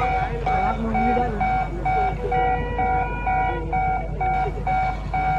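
An electronic warning beeper sounds in short, even beeps about three times a second over a low rumble, with people's voices faintly underneath.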